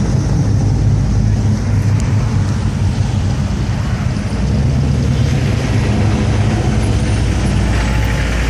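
Classic car engines running low and steady as cars crawl past in slow traffic.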